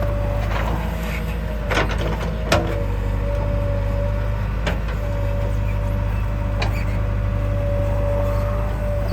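Heavy diesel machinery running steadily, with a steady whine that drops out briefly a few times. Several sharp knocks sound over it, the loudest about two and a half seconds in.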